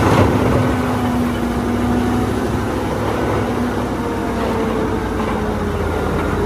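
Wheel loader engine sound: a heavy engine running steadily, a low rumble with a steady hum.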